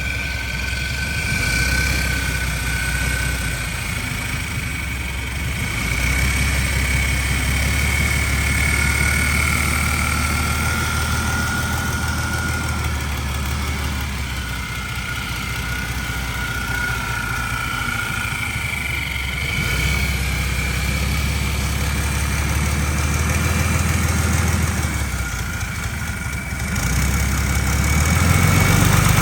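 Isuzu 6HK1-X 7.8-litre turbocharged inline-six diesel in a 2007 GMC C7500 Topkick running at idle. It is a steady low engine note with a faint, wavering high whine, and it grows a little louder near the end.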